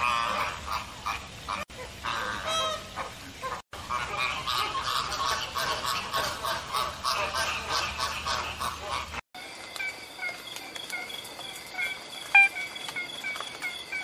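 Birds calling in a few short clips joined by abrupt cuts. In the middle comes a dense, rapid run of honking calls, and about nine seconds in it changes to a quieter series of evenly spaced high notes.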